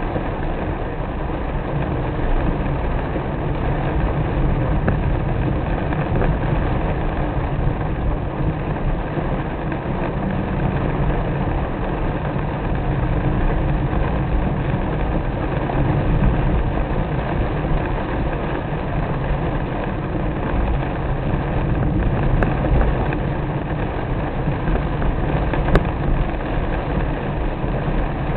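A car driving in rain: steady engine and road rumble, with two faint clicks near the end.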